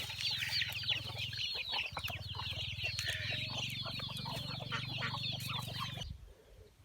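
Many chickens peeping and clucking in a dense, continuous chatter over a steady low hum. Both cut off suddenly about six seconds in.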